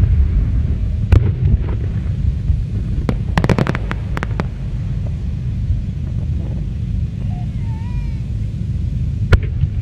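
Fireworks going off over a constant low rumble: a sharp bang about a second in, a rapid string of cracks around three to four seconds in, and another bang near the end.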